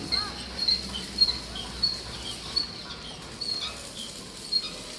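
Birds chirping: short, high chirps repeating about twice a second, with a couple of lower, arching calls in the first second.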